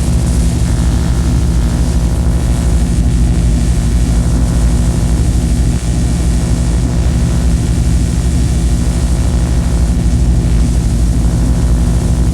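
Harsh noise-drone music: a loud, steady whirring drone of stacked low tones with a dense hiss over it, like a propeller engine running without change.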